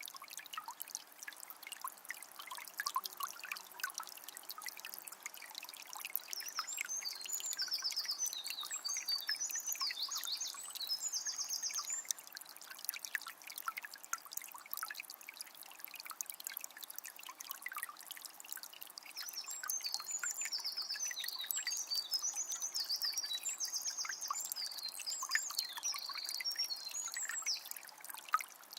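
Water of a small spring trickling and splashing steadily. A small bird sings high, trilling phrases in two bouts, a few seconds in and again about two-thirds of the way through.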